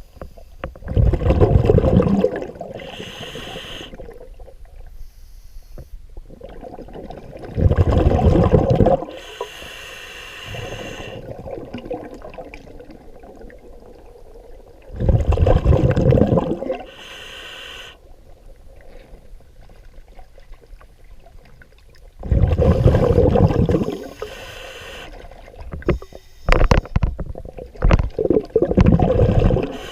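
Scuba diver breathing underwater through a regulator: loud bubbling exhalations of a second or two, about every seven seconds, each followed by a fainter hissing inhalation. Near the end come several shorter, quicker bursts of bubbles.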